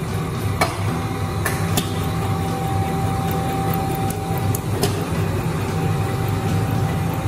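Bamboo toothbrush handle drilling machine running: a steady motor hum with a thin whine that drops out twice, and a few sharp clicks.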